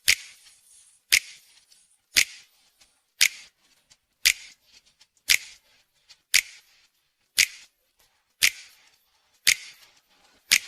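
A car's turn-signal indicator ticking steadily, about one sharp click a second.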